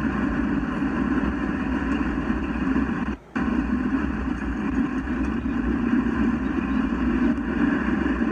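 Steady road and engine noise inside a car driving at speed. It cuts out for a moment about three seconds in.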